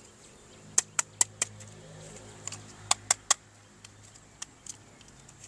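Sharp clicks in two quick runs: four about a fifth of a second apart, then three more about two seconds later, over a faint low hum.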